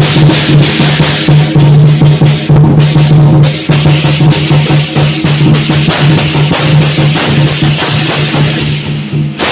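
Lion dance percussion: a large drum beaten in rapid, steady strokes with clashing cymbals. It starts suddenly at full volume and keeps going.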